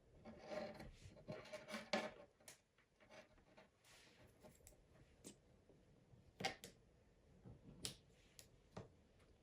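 Faint handling noise: soft rustling, then a few separate light clicks and knocks, over near-silent room tone.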